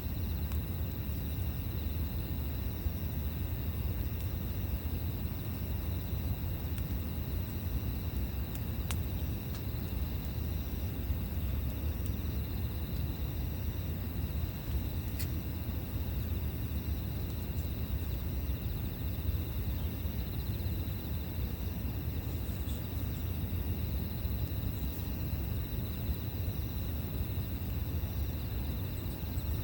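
Campfire ambience: a low steady rumble with two sharp pops, about nine and fifteen seconds in, over steady insect chirring.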